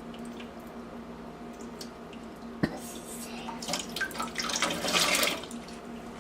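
Water splashing and dripping in a kitchen sink as a child washes dishes by hand, with a sharp knock about two and a half seconds in and louder splashing around the middle.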